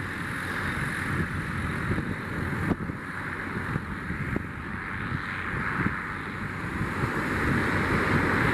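Steady wash of surf breaking on the beach, with wind buffeting the microphone.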